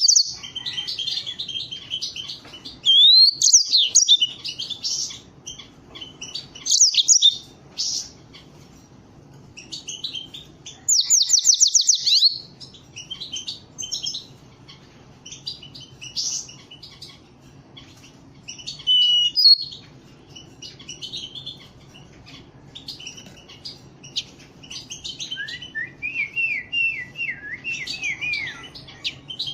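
Pet canaries singing in quick trills and chirps, with louder song phrases coming and going, among them a fast run of repeated rising notes about eleven seconds in and a string of slurred notes near the end.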